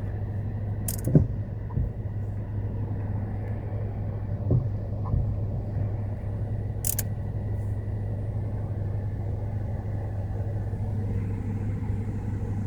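Car engine idling in park with a steady low rumble, with a couple of sharp clicks, one about a second in and one about seven seconds in.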